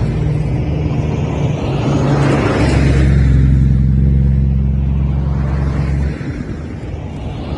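Vehicle engines running as vehicles pass close by. A steady low engine note is strongest in the middle and drops off sharply about six seconds in.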